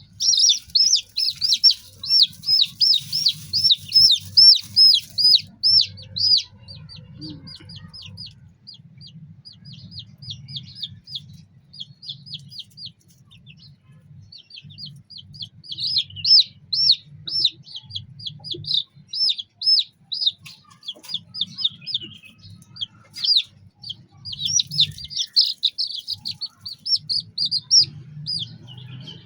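Chicks peeping: a long run of short, high, down-slurred peeps, two to three a second, loud for the first several seconds, fainter through the middle, then loud again over the last part.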